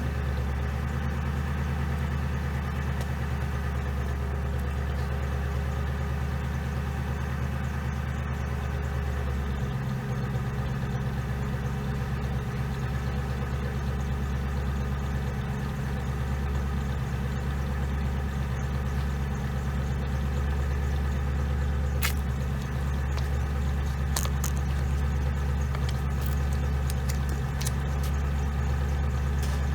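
A 2007 Ford Crown Victoria's 4.6-litre V8 idling steadily after a spark plug change made to cure a misfire. Its low drone grows a little stronger about ten seconds in, and a few light clicks come in the second half.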